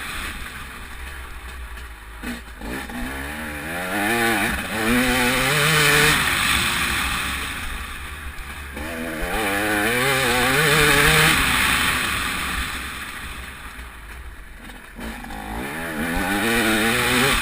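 TM 300 two-stroke motocross bike engine under hard riding, revving up three times with the throttle rolled off in between, its pitch wavering as it climbs.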